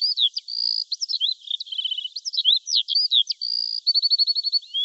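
Songbird singing: a fast, unbroken run of high chirps and slurred whistles, with two short rapid trills, one about two seconds in and one near the end.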